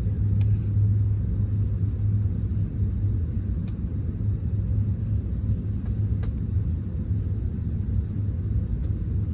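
Steady low rumble of an Airbus A321neo's engines running at idle after start-up, heard from inside the passenger cabin.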